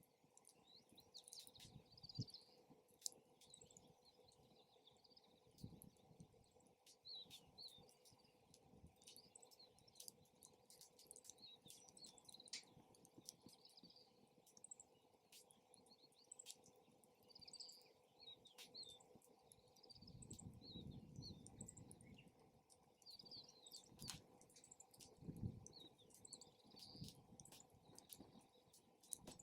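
Wood campfire crackling with scattered sharp pops, with small birds chirping. In the second half, two low rumbles of wind buffet the microphone.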